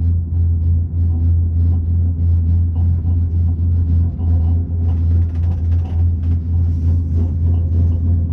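Steady low rumble inside a Skyrail cableway gondola riding the cable, with many faint ticks and rattles over it.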